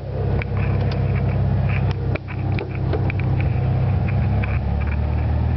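A 1973 Volkswagen Super Beetle's air-cooled 1600 cc flat-four engine idling steadily, with scattered light clicks over it.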